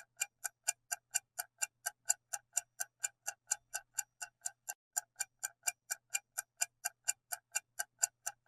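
Clock-style countdown ticking sound effect, even and steady at about four ticks a second, timing the pause for answering a quiz question.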